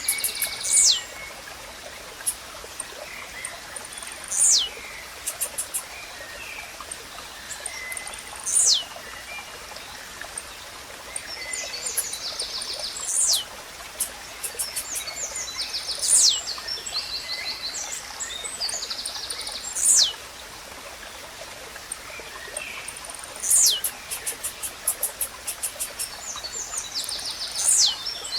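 Blue-black grassquit (tizil) singing, a short, sharp, steeply falling note about every four seconds, with other birds chattering between the calls over a steady stream.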